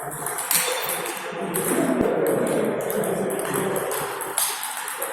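Table tennis balls clicking off bats and tables in quick, irregular taps, from rallies on several tables at once, over a hall murmur.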